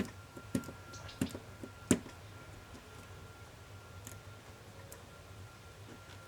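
Several sharp clicks and taps in the first two seconds, the last the loudest, from small plastic and metal laptop parts being handled and pried apart during disassembly, over a faint steady hum.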